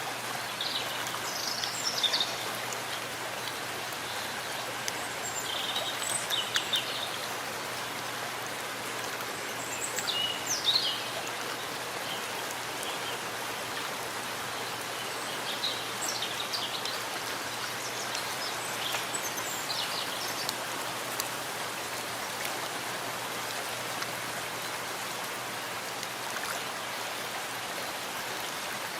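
Steady rain falling in a forest, an even patter of drops. Short high bird chirps break through every few seconds.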